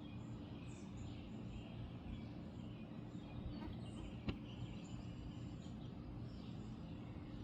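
Birds chirping faintly over a steady low hum, with one sharp click about four seconds in.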